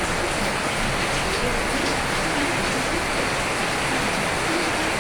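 Steady rainfall, a continuous even hiss of rain with faint scattered drop patter.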